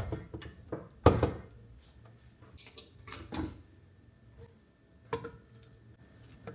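A series of separate knocks and clunks, like doors or drawers being opened and shut, the loudest about a second in, with quieter ones a few seconds later.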